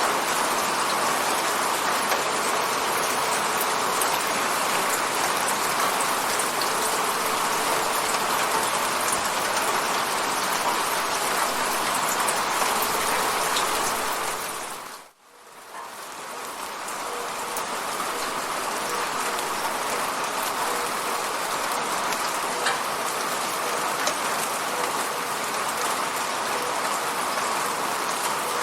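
Steady rain falling on an apartment window, an even hiss. About halfway through it dips almost to silence, then fades back in over a couple of seconds.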